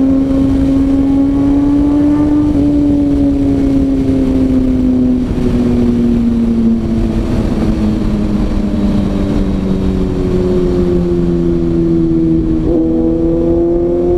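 Kawasaki ZX-6R inline-four engine running under way, with wind rushing on the microphone. The engine note sinks slowly as the bike slows, then jumps up with a downshift near the end.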